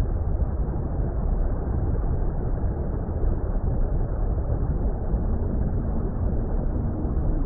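Steady, muffled low rumble of water, a deep underwater-style ambience with no high end and no separate events.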